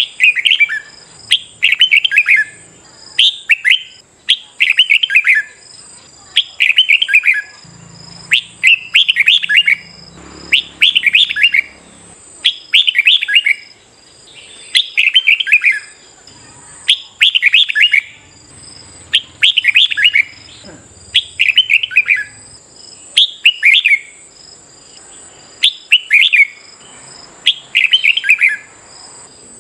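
Red-whiskered bulbul singing its short, bright warbled phrase over and over, about one phrase every one and a half to two seconds. A faint steady high whine runs underneath.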